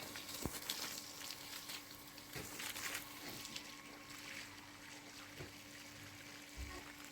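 Water splashing and trickling, with a cluster of sharp splashes in the first three seconds that then thin out.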